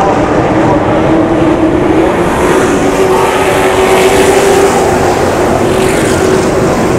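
Race truck engine running hard at speed on a short oval track, its note climbing a little over the first few seconds and then holding steady.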